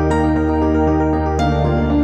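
Background music: a calm new-age piece of sustained chords, with fresh notes struck twice, near the start and about halfway through.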